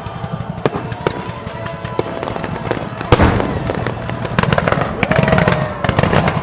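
Fireworks exploding: scattered sharp bangs and crackles, a heavy boom about three seconds in, then a dense run of crackling reports near the end.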